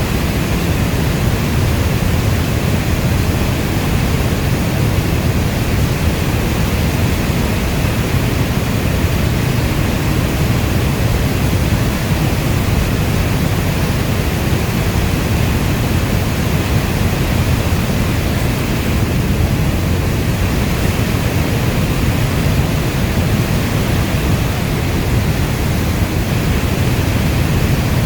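Steady heavy rainfall as one dense, even wash of noise, weighted toward a low rumble. No separate drops or thunder claps stand out.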